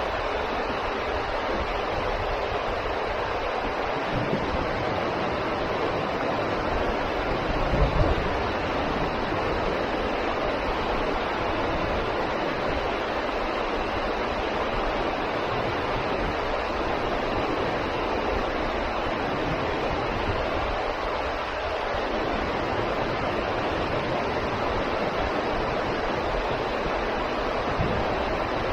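Waterfall rushing in a steady, even roar of falling water. A brief low bump about eight seconds in, like wind or handling on the microphone.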